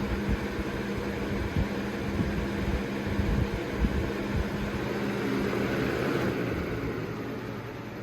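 Galaxy box fan model 4733 running: a steady rush of air over a low motor hum, with low buffeting on the microphone. The rush of air eases off about six seconds in while the hum carries on.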